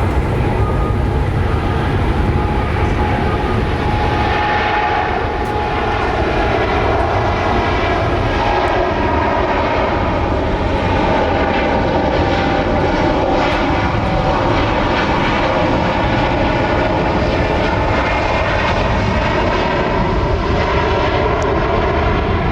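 Jet airliner engines running loud and steady, with several whining tones that drift slowly in pitch.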